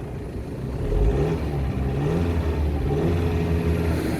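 Audi A5's 2.0 TDI four-cylinder diesel engine revving in a few short blips, each rising in pitch.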